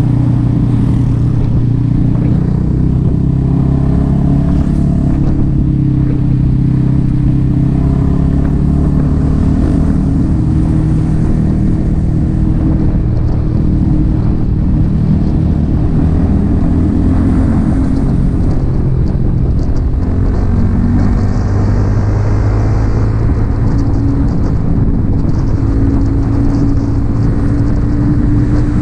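Yamaha XSR 155's single-cylinder engine through an aftermarket M4 exhaust, running steadily under way with its note rising and falling a little with the throttle.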